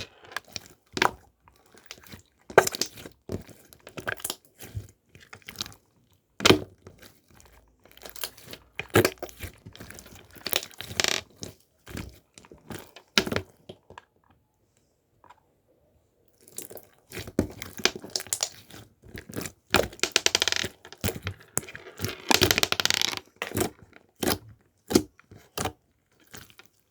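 Irregular clicks, taps and crinkling, with a denser run of rustling crinkles past the middle and a short pause before it.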